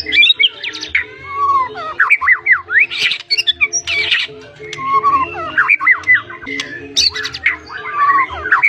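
White-rumped shama (murai batu) singing a fast, unbroken run of varied whistles, quick rising and falling notes and sharp clicks, with calls of other birds mimicked into the song.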